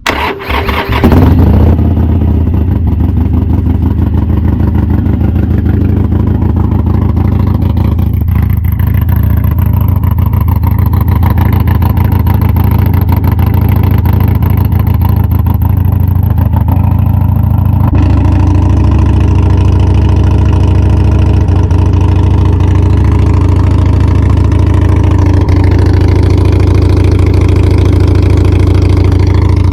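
Harley-Davidson Sportster Iron 883's air-cooled 883 cc V-twin cranked on the starter, catching about a second in and then idling steadily and loudly. It breathes through a 2-into-1 SPC cutback exhaust, and this is that exhaust's sound.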